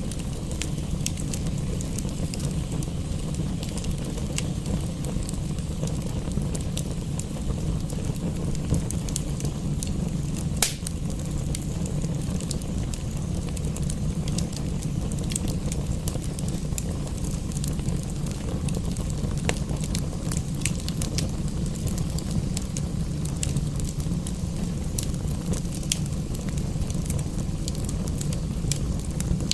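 Wood fire in a fireplace, crackling with frequent small pops and one louder pop about eleven seconds in, over a steady low rumble.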